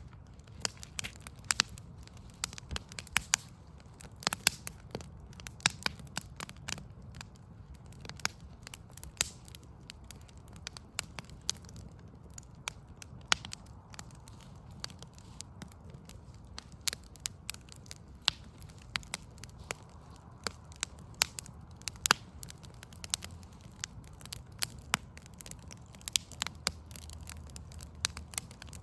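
Backyard wood fire of burning logs crackling, with frequent irregular sharp pops over a steady low rumble.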